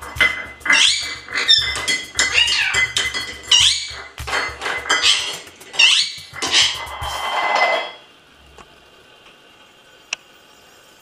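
Parrot squawking and chirping in quick rising and falling calls, mixed with clinks and knocks of a small metal bowl it is playing with, for about eight seconds. Then it falls quiet apart from one sharp click near the end.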